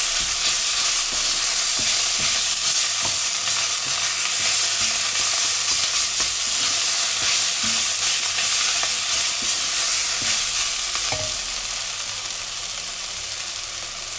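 Diced soup vegetables and onion sizzling in hot oil in a cast-iron cocotte, stirred with a wooden spatula that knocks lightly against the pot now and then. The frying gets a little quieter near the end as the stirring stops.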